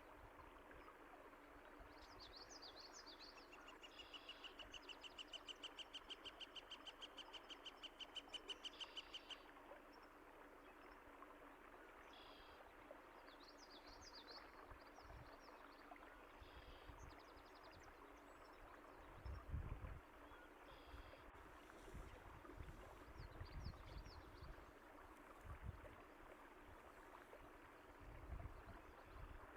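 Water running steadily, like a stream, with birds chirping over it; one bird gives a long, fast trill of evenly repeated notes from about four to nine seconds in, then short calls follow here and there. A few low thumps come in the second half.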